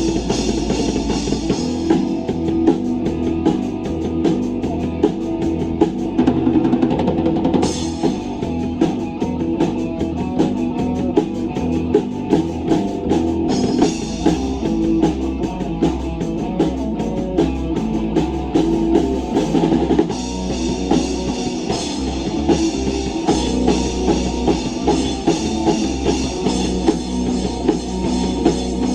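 Rock band playing live with no vocals: a drum kit keeps a steady beat under guitar.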